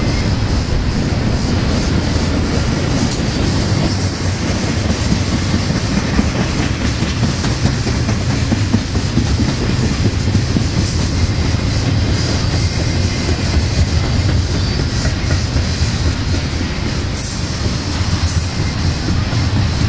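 BNSF double-stack intermodal container train rolling past close by: a steady heavy rumble and clatter of freight car wheels on the rails, with brief high wheel squeals a few times.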